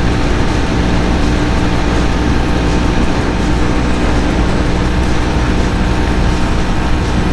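Jawa 42's single-cylinder engine running steadily at full throttle, with the motorcycle near its top speed of about 130 km/h. A constant engine drone sits under heavy wind and road rush.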